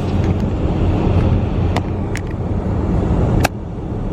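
Steady low rumble of a car's engine and tyres heard from inside the cabin while driving, with a few sharp clicks; the loudest click comes about three and a half seconds in, after which the noise drops a little.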